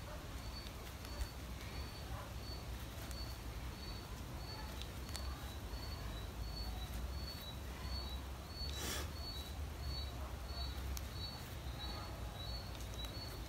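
A bird calling a steady series of short, high peeps, about two a second, over a low steady background rumble.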